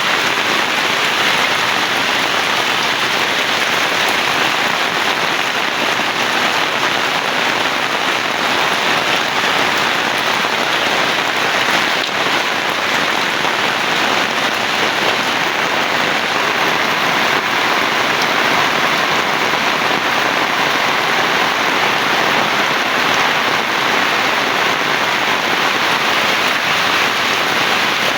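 Heavy rain falling steadily onto surfaces, an even downpour with no thunderclap or break.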